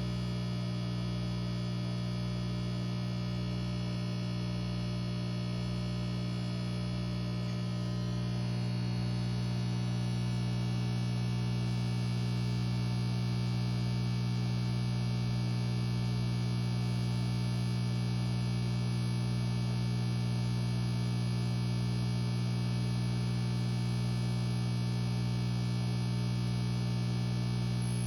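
Aquarium air pump (bubbler) running with a steady electric hum, made up of a strong low tone and many even overtones, growing slightly louder about eight seconds in.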